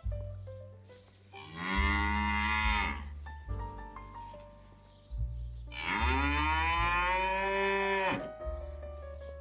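Dairy cow mooing twice: two long moos, each rising in pitch then falling away at the end, the second longer than the first.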